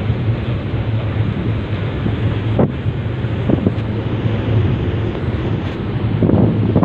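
Wind buffeting the microphone on a moving boat, over a steady low hum and the wash of water, with a couple of short thumps in the middle.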